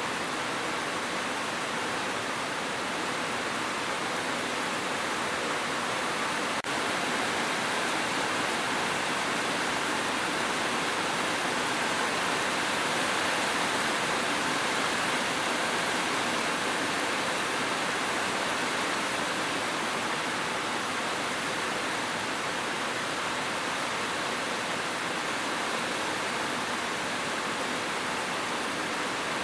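Steady heavy rain: a dense, even hiss in which no single drops stand out, holding the same level throughout.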